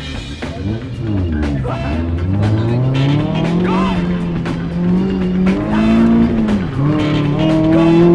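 1999 Mazda Miata's four-cylinder engine revving hard under acceleration, its pitch climbing, holding, then dipping briefly near the end before climbing again, with music mixed over it.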